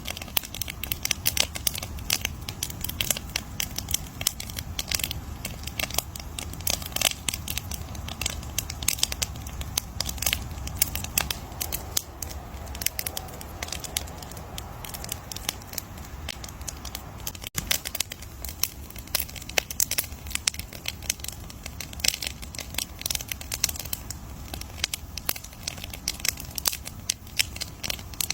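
Campfire crackling: wood popping and snapping in a dense, irregular stream of sharp clicks over a steady low rumble of the flames.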